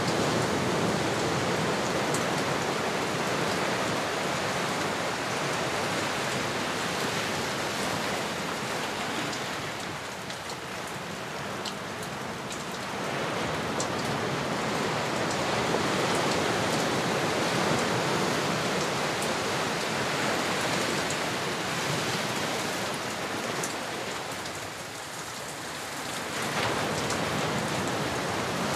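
Ocean surf: a steady wash of waves breaking and receding that eases off twice, about ten seconds in and again near the end, before swelling back.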